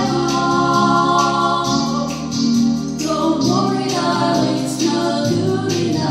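Two women singing in harmony over a keyboard-arranger backing track with a steady drum beat.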